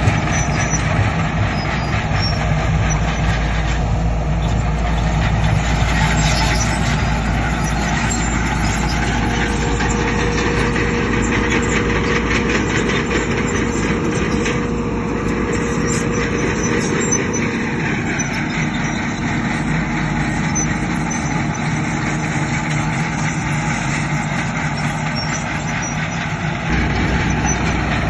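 Diesel engines of heavy earthmoving machinery running steadily under work, a Shantui bulldozer and dump trucks. The deep rumble eases off for a while past the middle and comes back strongly near the end.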